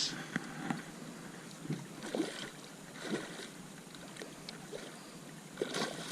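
Water slapping and light irregular knocks on a small aluminium jon boat, with louder splashes at the start and near the end.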